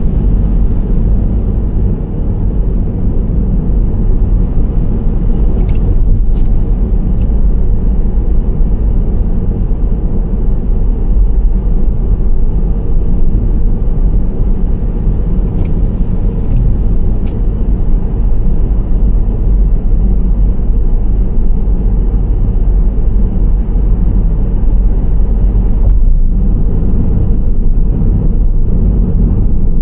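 Nissan Serena C25 minivan driving at a steady speed: a constant low rumble of road and engine noise. Two small groups of faint ticks come about six and sixteen seconds in.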